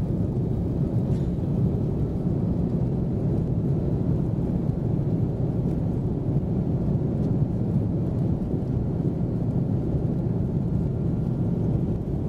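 Steady low rumble of an Airbus A330-200's Rolls-Royce Trent 700 engines and airflow, heard from inside the cabin during departure.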